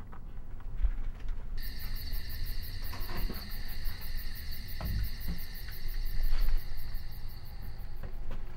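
Crickets chirping in a steady night chorus, starting suddenly about a second and a half in, over a low rumble.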